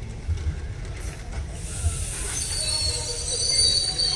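Passenger train coaches rolling slowly into a station, a steady low rumble of wheels with a few knocks over the rail joints. From about halfway a high-pitched wheel squeal and hiss sets in and grows louder near the end as the train slows.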